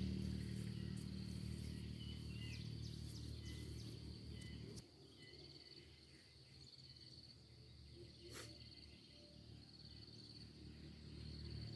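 Insects trilling steadily, with a few short bird chirps. A low rumble fades through the first few seconds and stops abruptly, and there is a single sharp click partway through.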